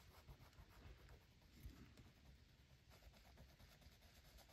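Faint scratching and rubbing of a colouring tool on paper in short, irregular strokes, blending in colour.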